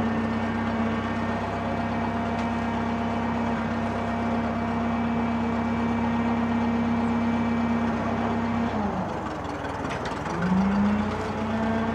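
Drott 85RM2 truck crane's engine running steadily under hydraulic load. About nine seconds in its speed sags and drops away, then picks back up a second or so later.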